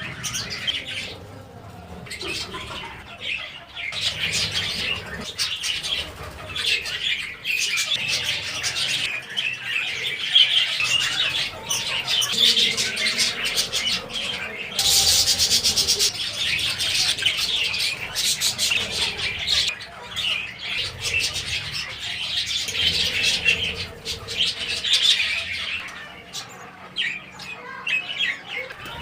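Many small birds chirping and twittering together without a break, with a loud rushing noise for about a second around the middle.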